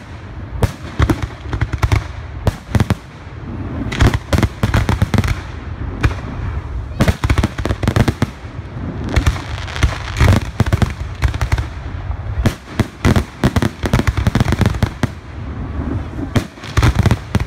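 Aerial fireworks exploding in a dense, irregular barrage, clusters of sharp bangs and crackles coming in quick runs with a low rumble between them.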